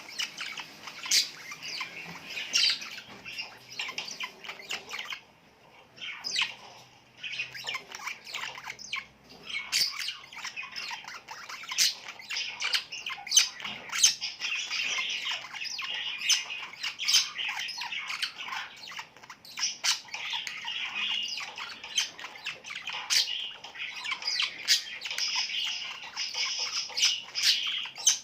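Small birds chirping and squawking with many overlapping sharp calls in a busy, steady chatter, thinning briefly about five seconds in.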